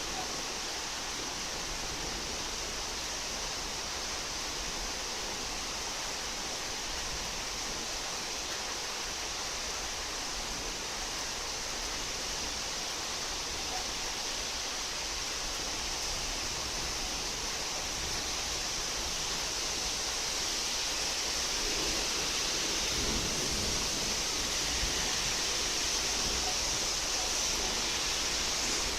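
Rain pouring down steadily, an even hiss that grows a little louder after about twenty seconds.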